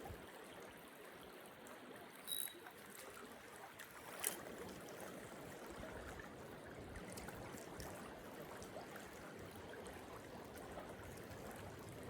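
Small rocky creek steadily trickling and burbling, with two brief clicks about two and four seconds in.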